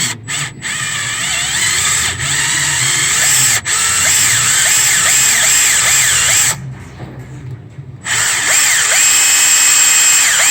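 Power drill running under load, drilling out a broken EGR bolt, its whine wavering in pitch as the trigger and load change. It eases off for a second or so about two-thirds of the way through, then runs again.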